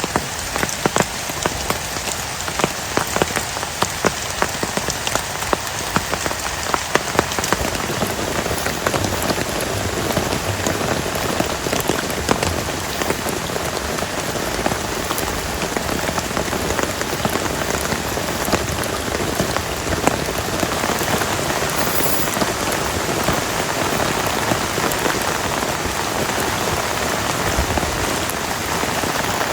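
Heavy rain falling steadily, with many separate drop hits heard in it. The downpour grows denser and a little louder after about seven seconds.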